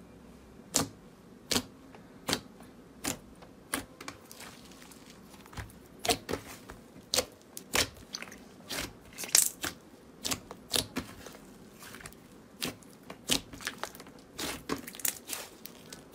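Slime being worked by hand, giving a series of sharp clicking pops and crackles. The pops come evenly at first, then faster and more irregular, with the loudest about halfway through.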